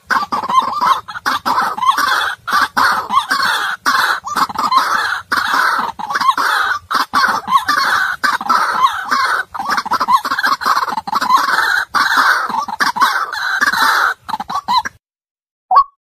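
White-breasted waterhen calls: a loud, dense run of croaking calls that stops abruptly about 15 seconds in, then after a brief silence a series of short, evenly spaced single notes begins near the end.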